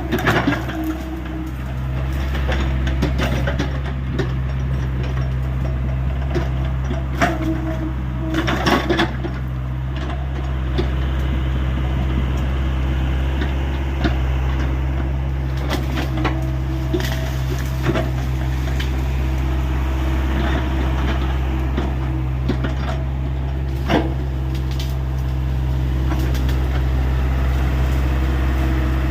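Hyundai 85A Smart excavator's diesel engine running steadily under load, with scattered sharp cracks and knocks as brush and branches break during clearing.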